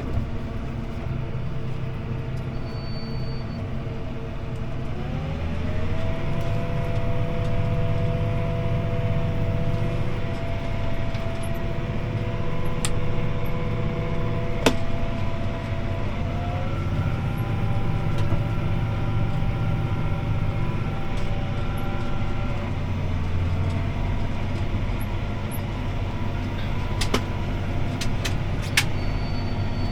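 A CLAAS ARION 650 tractor's six-cylinder diesel engine and drivetrain running steadily under load, heard from inside the cab while it pulls a disc harrow. The tones rise in pitch twice, about five seconds in and again past the middle, then drop back, with a few sharp clicks near the end.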